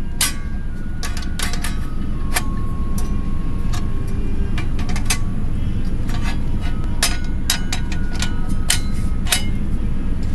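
Irregular clacks and clinks, some ringing briefly, as the boards and grill grate of a small DOD folding camp table are set onto and fitted into its frame, over a steady low rumble.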